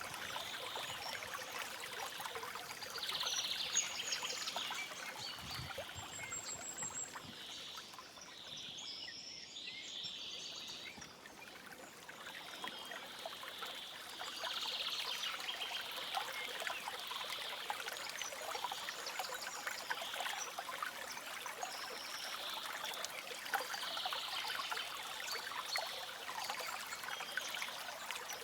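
A forest stream trickling steadily, with birds chirping now and then over it. The water sound eases a little around ten seconds in.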